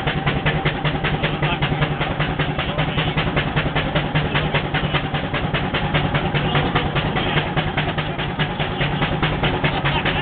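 Wallis steam traction engine working under load, its exhaust beats coming evenly at about seven a second over a steady low hum of running gear.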